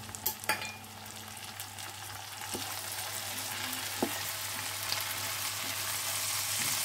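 Onion, ginger and garam masala paste frying in hot mustard oil in a non-stick pan, stirred with a spatula: a steady sizzle that slowly grows louder as the paste heats, with a few light knocks of the spatula against the pan.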